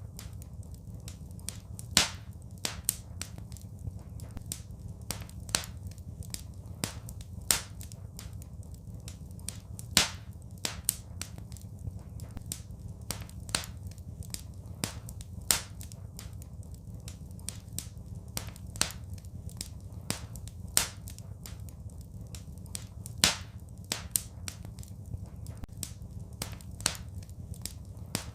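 Fireplace fire crackling: irregular sharp pops and snaps, a few of them much louder, over a steady low rumble.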